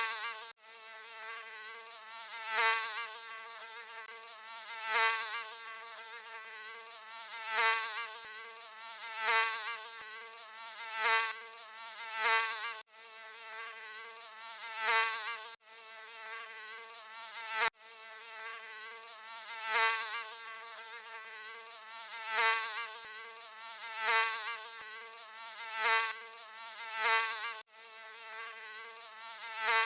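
Mosquito whine: a thin, high buzzing hum with a wavering pitch that swells louder and fades again about every two to three seconds, with a few brief cut-outs.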